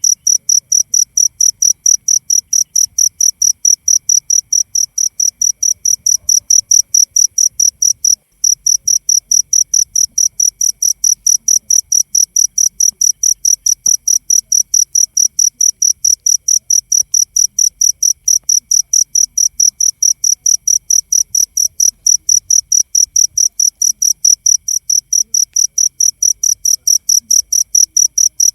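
Cricket chirping steadily, short high-pitched chirps repeating evenly about three to four times a second, with a brief break about eight seconds in.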